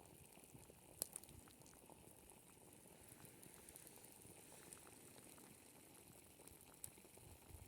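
Near silence: a faint crackling hiss with a sharp click about a second in and another near the end.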